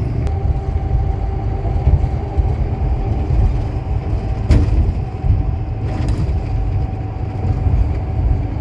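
Steady low rumble of a semi truck driving, engine and road noise heard from inside the cab, with two faint clicks midway.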